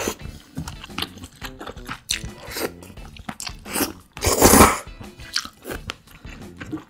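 Close-miked chewing and crunching while eating spicy jjambbong (seafood noodle soup), a run of short wet mouth clicks and bites, with one louder noisy burst lasting about half a second about four seconds in.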